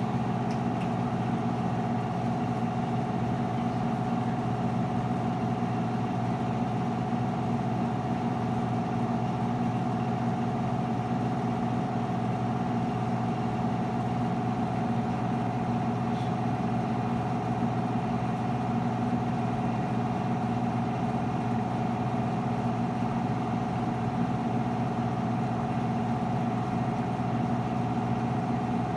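Whirlpool front-load washing machine running through its spin and drain cycle with a steady drone at a constant pitch, a low hum with a higher tone above it. This is the noise the owner is complaining about.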